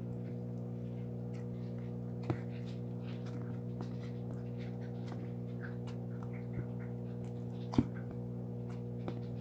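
Slime being handled: small sticky clicks and pops, with a sharper click about two seconds in and another near the end, over a steady electrical hum.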